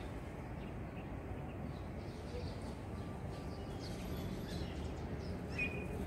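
Outdoor ambience: a steady low background rumble with a few faint, short bird chirps, the clearest one about five and a half seconds in.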